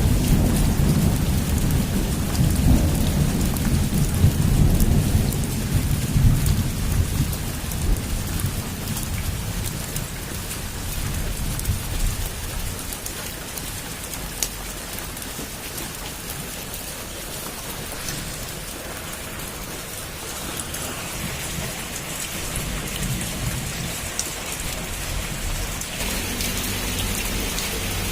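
Heavy rain falling steadily, with a long roll of thunder at the start that rumbles on and fades away over the first ten seconds or so.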